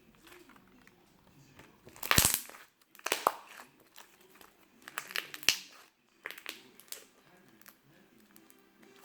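Slime being squeezed and handled with hands, giving loud crackling, crinkling bursts about 2, 3, 5 and 6.5 seconds in, over a faint steady background noise.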